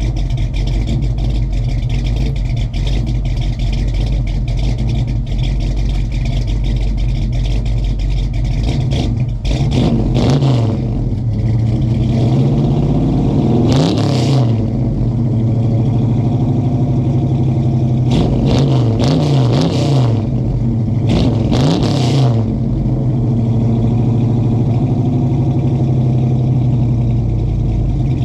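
Small-block Chevy 350 V8 breathing through a new 2.5-inch stainless exhaust with Flowmaster 40 Series mufflers. It idles steadily, then about a third of the way in the throttle is blipped several times, some revs in quick pairs, each rising and falling fast, before it settles back to idle.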